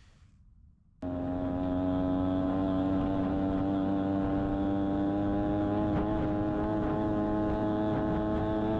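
Rebuilt two-stroke engine of a 1982 Honda Odyssey FL250 running steadily under way, its pitch creeping slowly upward. It cuts in suddenly about a second in after near quiet.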